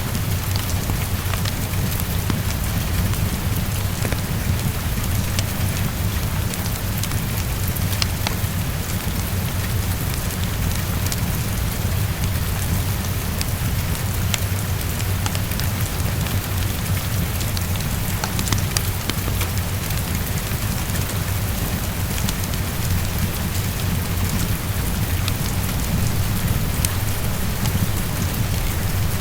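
Steady heavy rain on a window, over a constant low rumble, with scattered small crackles from a fireplace.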